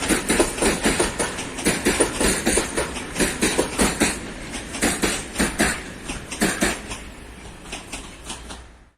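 Train passing, its wagon wheels clattering over rail joints and points in a dense run of knocks that thins and fades away toward the end, then cuts off suddenly.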